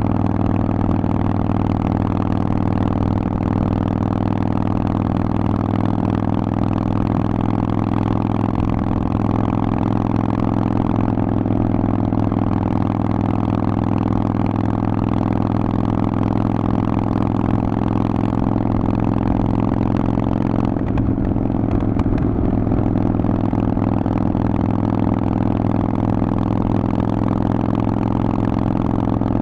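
Harley-Davidson Forty-Eight's 1200 cc air-cooled V-twin running through a Vance & Hines exhaust, at a steady, unchanging engine speed.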